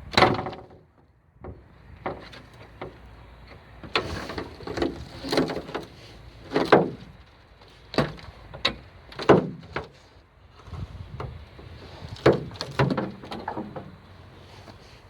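A series of irregular knocks and clunks, some with a short ringing tail; the loudest comes right at the start.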